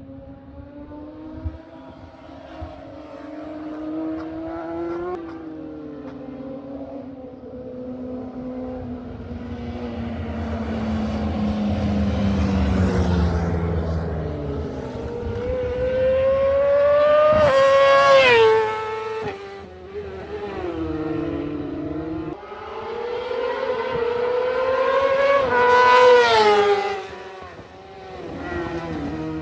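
High-displacement racing motorcycle engines being revved during warm-up. The pitch sweeps up and down, falling slowly about a third of the way in, then climbing twice to loud peaks, two-thirds of the way through and near the end, each cut off by a sharp drop.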